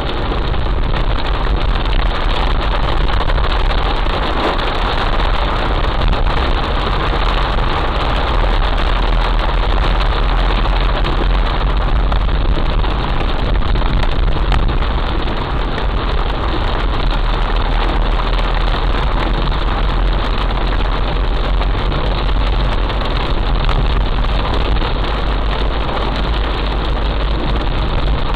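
Heavy rain pouring steadily: a dense, even hiss with a deep low rumble underneath.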